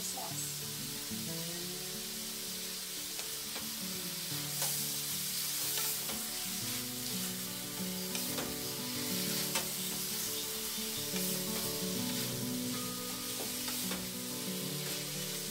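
Shrimp and vegetables sizzling in a hot metal wok as they are stir-fried, with scattered clicks of the spatula against the pan.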